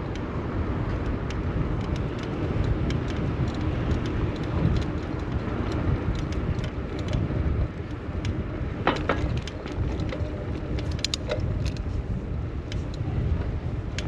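Road traffic and a heavy, steady low wind rumble on the microphone of a bicycle ride through city streets, with light rattling clicks and a short squeak about nine seconds in.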